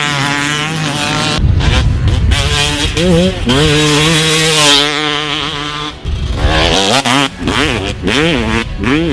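Yamaha YZ250 two-stroke motocross bike ridden hard. The engine revs up and holds high for a few seconds, drops off, then rises and falls several times near the end.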